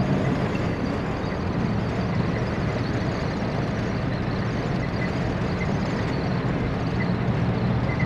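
Steady road and engine noise inside the cabin of a 1957 Chevy Bel Air cruising down the road, with a faint short squeak now and then that the driver cannot place and suspects needs lubrication.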